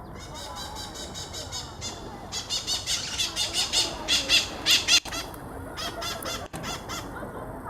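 Birds squawking, a fast series of shrill repeated calls about four a second that grow louder and then stop about five seconds in.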